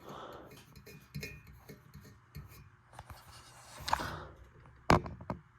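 Handling noises from a ceiling fan being turned over and examined: irregular rubbing and light taps, with one sharp knock about five seconds in.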